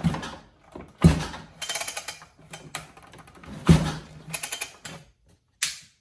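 Chainsaw recoil starter cord pulled by hand about three times, each pull a sharp yank followed by the rasp of the rope and the engine turning over. The engine does not start; it is being pulled over to check compression, and it has some.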